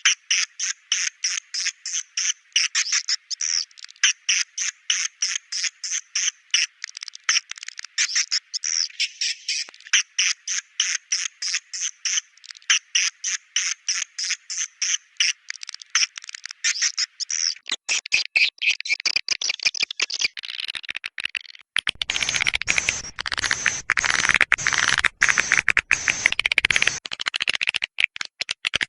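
Swiftlet calls: rapid chirps repeated a few times a second. From about 18 seconds in they turn into a denser, noisier stretch.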